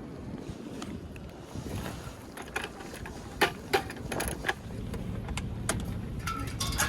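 A series of sharp mechanical clicks and clunks, bunched about three and a half to four and a half seconds in and again near the end, over a steady low rumble.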